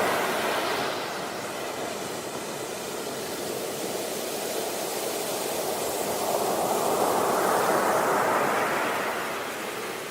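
Sea waves on a beach: a steady wash of surf that swells to a breaking wave about seven to eight seconds in, then recedes near the end.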